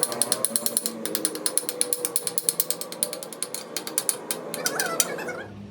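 Rapid, even mechanical clicking, about ten clicks a second, like a ratchet turning; it stops shortly before the end.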